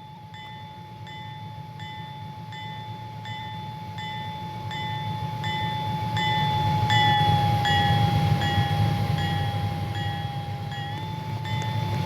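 Railroad grade-crossing bell ringing steadily, about two strikes a second, with a steady high whine underneath. A freight train's low rumble builds to its loudest about two-thirds of the way through.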